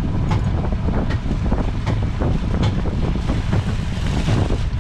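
Wind buffeting the microphone on a small fishing boat at sea, a heavy low rumble, with scattered sharp clicks and knocks.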